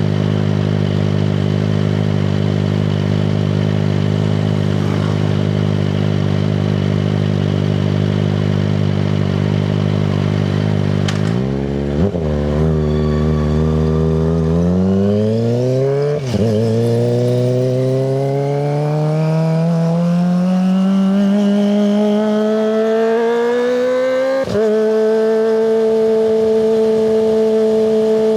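Kawasaki ZX-25RR's 250 cc inline-four engine through a Yoshimura Hepta Force exhaust, running at a steady note and then pulling up through the gears: the pitch climbs, drops briefly at each shift about halfway, a few seconds later and near the end, then holds steady at a higher pitch.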